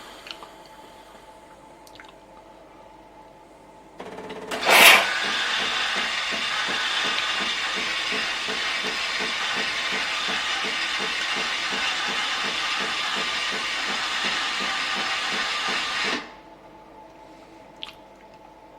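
Melitta Latticia OT fully automatic coffee machine dispensing: after a loud sputtering burst, a steady steam hiss runs over the fine rhythmic pulsing of its pump for about twelve seconds, then cuts off suddenly. A faint click follows near the end.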